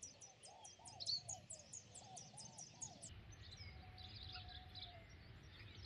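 Faint birdsong: a fast series of high, thin, falling notes, several a second, over lower looping whistles. After about three seconds it changes to a softer scatter of bird notes.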